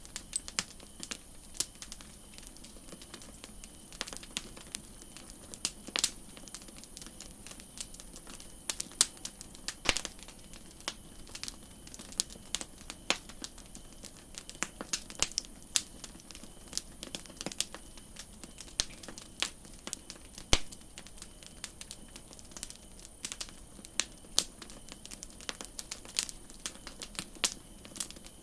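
Wood campfire crackling: irregular sharp snaps and pops, several a second, over a faint steady hiss.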